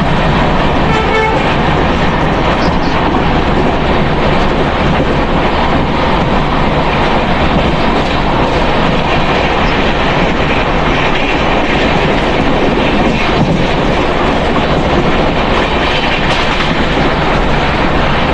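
Indian Railways passenger train running along the track, heard from beside the coach: a loud, steady noise of wheels on rails and the moving coach.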